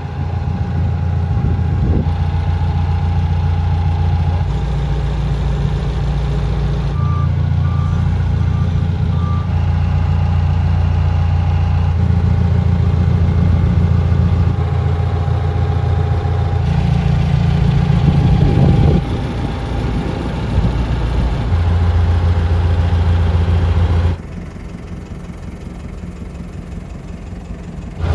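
1998 Clark GCX-50 LPG forklift's engine running steadily, with a brief run of short high beeps about a quarter of the way in. The sound drops quieter in the last few seconds.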